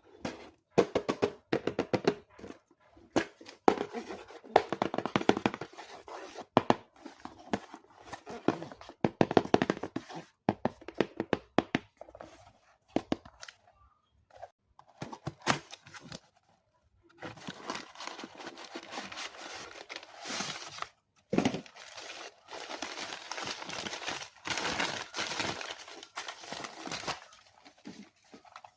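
Toy packaging being unboxed by hand: repeated knocks and clatter of cardboard and plastic, then longer stretches of crinkling and tearing in the second half.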